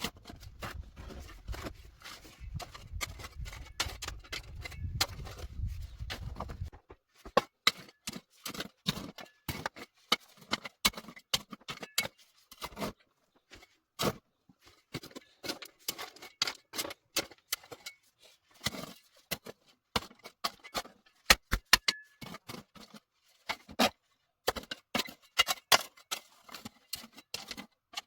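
A run of irregular sharp clicks and taps, with a low rumble under them that stops abruptly about seven seconds in.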